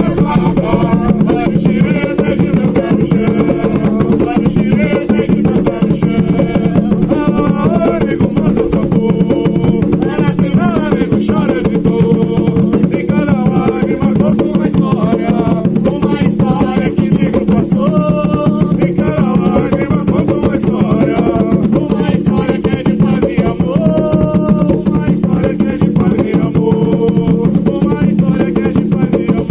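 Umbanda ponto for the Pretos Velhos: voices singing over atabaque hand drums played in a steady, driving rhythm.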